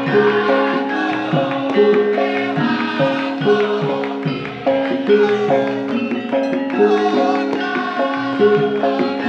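Javanese gamelan music playing an opening gending: struck metallophones ringing a repeating melody of held notes over drum strokes.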